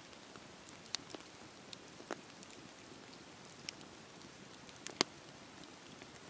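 Wood fire crackling: a soft steady hiss with a few scattered sharp pops, the loudest about five seconds in.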